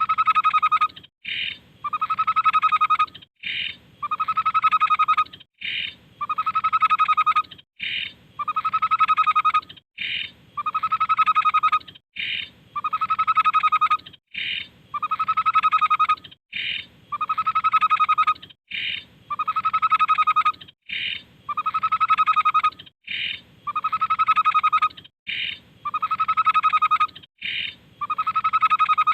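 Tepus (Stachyris babbler) song repeated over and over at an even pace, about every two seconds: a short higher note, then a longer lower note with a fast trill-like pulse.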